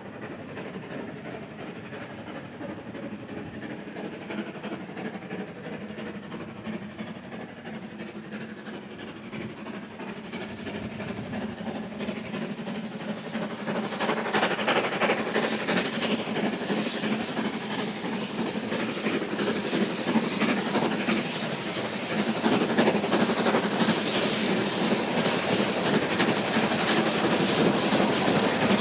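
Steam train approaching, its locomotive exhaust and the wheels on the rails growing steadily louder, with a jump in loudness about halfway through.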